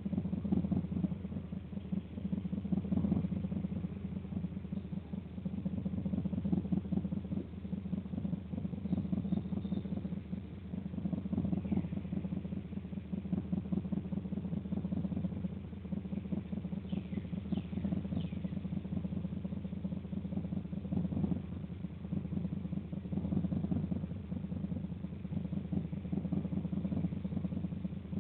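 A steady low rumble like an engine idling, with a few faint high bird chirps, once about twelve seconds in and a quick cluster around seventeen to eighteen seconds.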